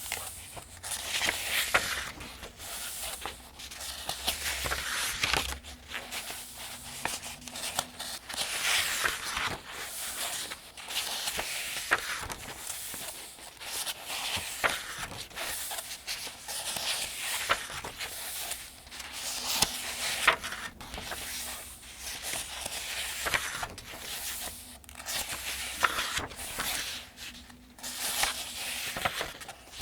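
Pages of the 2025 Farmers' Almanac being turned one after another at a steady pace, each turn a papery swish with crisp little snaps, about one every two to three seconds.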